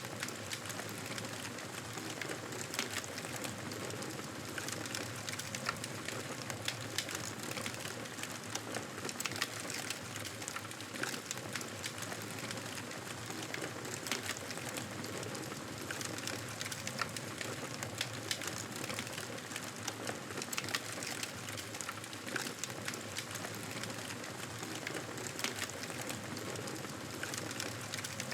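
Fireplace fire crackling: a steady hiss dotted throughout with many small, sharp pops and snaps.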